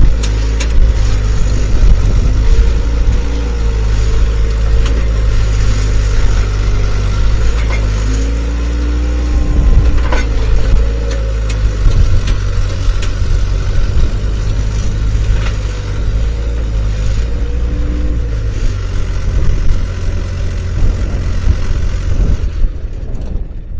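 Skid steer engine running steadily under load, with a tone that rises and falls every few seconds as the machine works. Near the end the sound drops off and turns duller.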